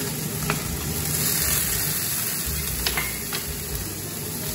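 Meatballs, just lifted from boiling water and not fully drained, sizzling in hot oil in a nonstick wok as more are added, with a few light clicks of a spatula against the pan.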